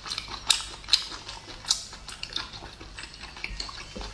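Close-up eating sounds: sharp wet clicks and smacks of chewing braised abalone, several a second, with an abalone shell clicking against the plate near the end.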